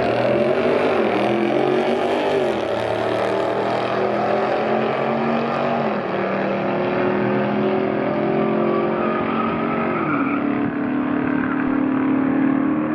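Drag car engine at full throttle pulling through the gears. Its pitch climbs steadily and then drops sharply at each upshift, three times, about 2.5, 6 and 10 seconds in.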